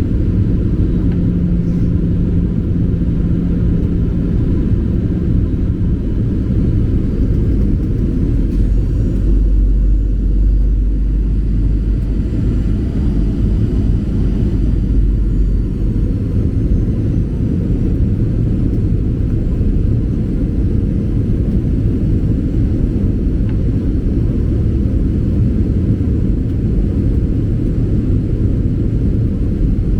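Boeing 737-800 cabin noise: the steady low rumble of its CFM56 engines and airflow. The rumble deepens for several seconds about ten seconds in.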